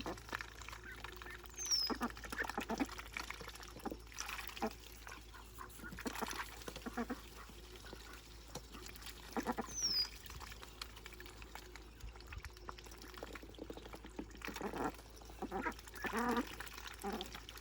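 Ducklings calling in short, scattered bursts as they swim, with a few brief high falling peeps and light splashing of water.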